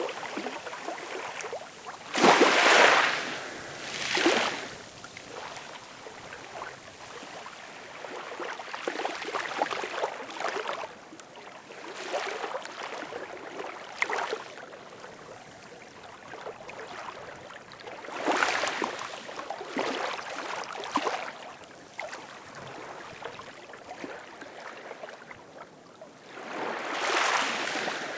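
Ocean surf: waves break and wash in as surging rushes of foam and water, with quieter hiss between them as the water runs back. The loudest surge comes about two to three seconds in, and others come near the middle and near the end.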